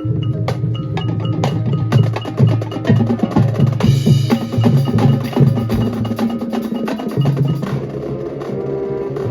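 High school marching band playing a percussion-heavy passage: rapid snare and bass drum hits and pitched percussion over sustained low tones.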